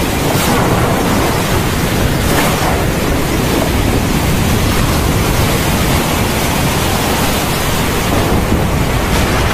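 Heavy torrential rain pouring steadily, with a deep rumble of thunder underneath.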